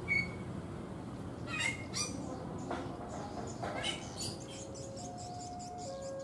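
Birds chirping in short calls over a steady outdoor background hum. Near the end, a steady electronic tone comes in, alternating between two notes.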